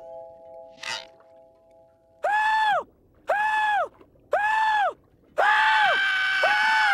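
Squidward's voice as a cartoon yell sample, stutter-looped: the same short rising-and-falling note repeats four times about a second apart, then runs on with one more short repeat near the end.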